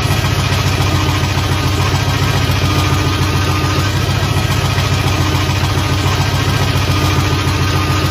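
Car engine running at idle: a steady, rapid low pulsing with a faint steady whine above it.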